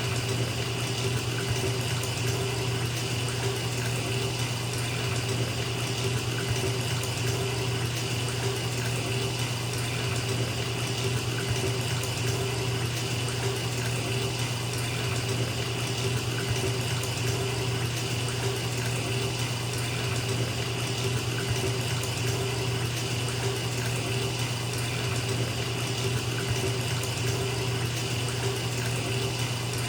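Bathtub filling from the tap: a steady, unbroken rush of running water splashing into the tub, with a constant low hum underneath.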